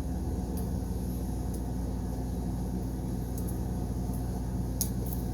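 Steady low background hum, with a few faint, light clicks scattered through it.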